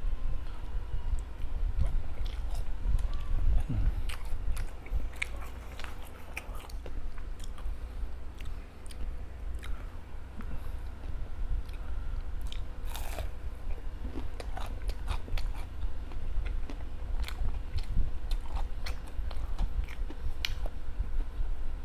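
A person biting into and chewing homemade veggie balls close to the microphone, with many small, irregular clicks of the mouth and food.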